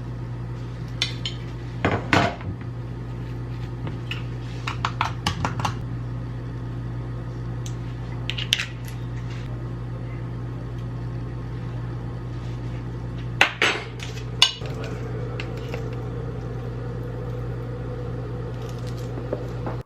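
Dishes and cooking utensils clattering and clinking now and then, with the loudest knocks about two-thirds of the way through, over a steady low hum.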